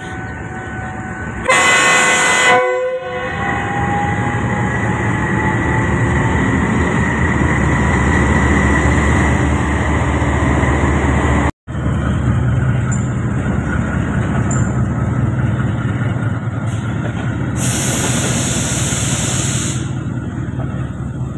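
A Pakistan Railways diesel-electric locomotive sounds a short horn blast of several tones about a second and a half in. Its engine then runs with a steady low rumble as it and its coaches roll slowly past. Near the end comes a burst of high hissing lasting about two seconds.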